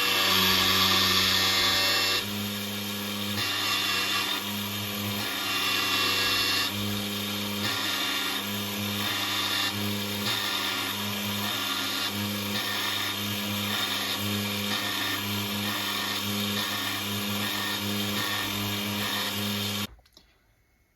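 Small electric motor spinning the grinding stone of a homemade miniature surface grinder, with a rasping grinding hiss on steel that comes and goes about once a second. It all stops abruptly near the end.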